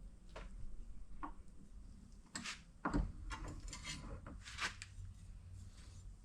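Scattered faint knocks, clicks and scrapes of things being handled, with the louder knocks about two and a half, three and four and a half seconds in.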